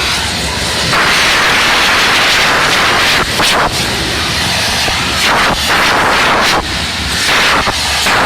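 Espadas, handmade gunpowder-filled fireworks of the São João sword war, hissing with a loud rushing sound for a couple of seconds, then several sharp bangs.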